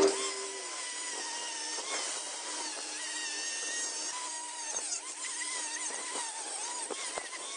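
A small high-speed rotary power tool whining, its pitch wavering up and down as it works a part, with a few short clicks.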